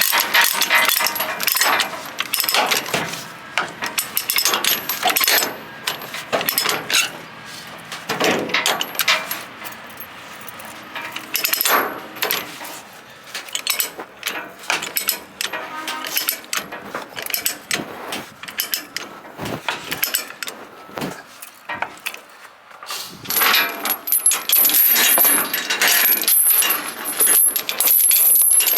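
Steel tie-down chains clinking and rattling as they are handled and hooked while securing an excavator to a trailer, with many irregular sharp metal clinks that come thickest near the start and again near the end.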